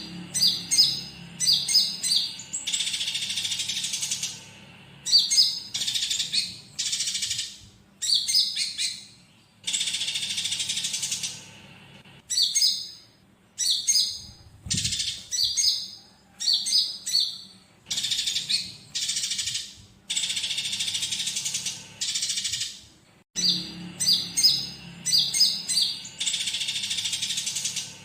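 A konin songbird's chattering song filled with the harsh calls of fighting sparrows. Quick runs of high chirps alternate with rasping, hissy phrases of about a second and a half, with short pauses between, repeating throughout.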